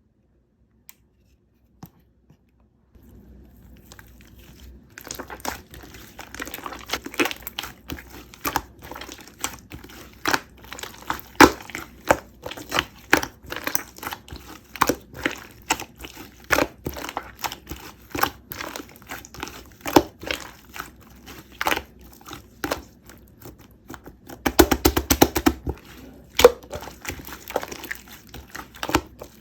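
Close crinkling and crackling: sharp, irregular clicks begin after about three seconds of near silence and thicken into a dense crackling burst near the end.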